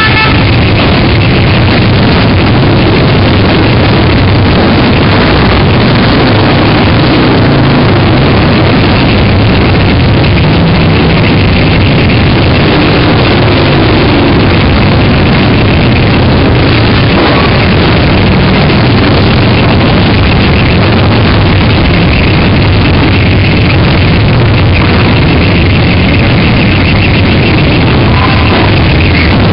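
A procession of many motorcycles riding past with their engines running, a dense unbroken engine noise so loud it overloads the microphone.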